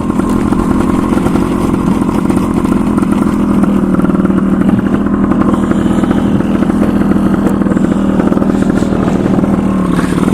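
Suzuki TS185's two-stroke single-cylinder engine running steadily at an even pitch.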